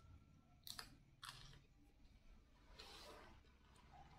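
Faint chewing of a mouthful of fried rice, with two sharp crunchy clicks about a second in and a softer, breathy rustle near the three-second mark.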